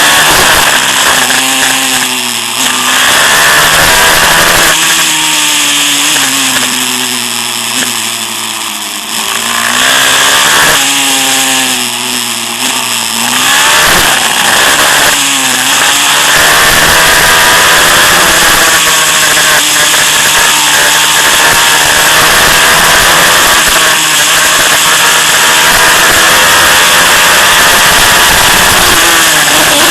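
Single-cylinder 190cc Daytona engine of a pit bike being ridden hard: revs rise and fall several times through the first half, then are held high and fairly steady for the second half, dropping off near the end.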